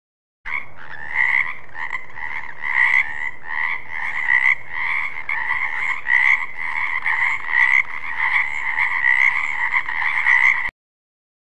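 Frog croaking in a dense, steady run of rapid repeated calls. It starts suddenly about half a second in and cuts off abruptly near the end.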